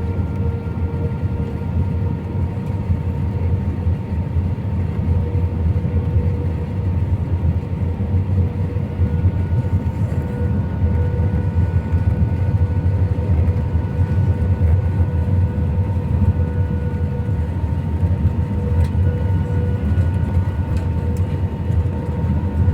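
Steady cabin noise of an Airbus A319 airliner: a low, even rumble of engines and airframe with a few steady whining tones running through it.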